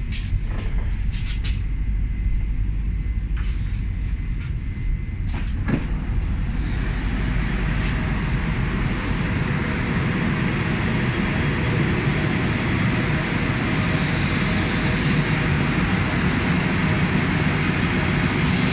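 Newag Impuls 35WE electric multiple unit heard from the platform: a low rumble with a few sharp clicks in the first seconds, then its running noise swells from about six seconds in and holds steady as the train pulls out.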